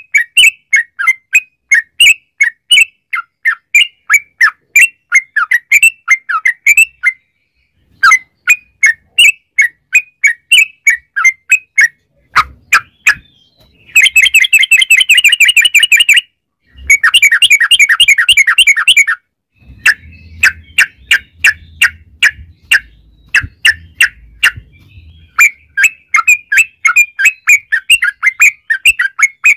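Yellow-vented bulbul (trucukan) singing its fast chattering song, with quick runs of notes broken by short pauses and two long, dense rolling trills (the 'ropel') in the middle.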